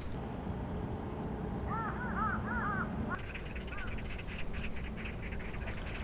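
A bird calling in a quick run of short, arched notes, then two more a second later, over a steady low hiss. From about three seconds in, light irregular ticking joins in.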